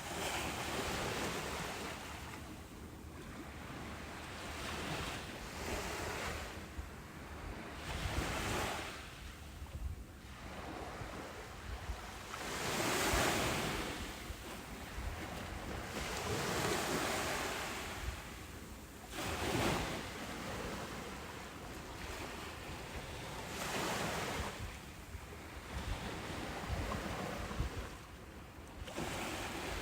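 Ocean surf breaking and washing up a beach, a steady rush that swells and ebbs every few seconds. The biggest waves come about thirteen and nineteen seconds in.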